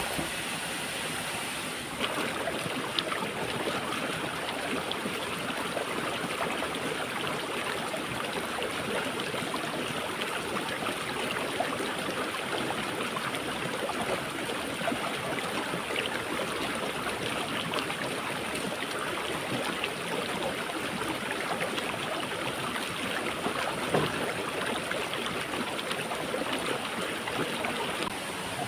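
Steady rushing of water from a waterfall and stream, with a few faint knocks now and then.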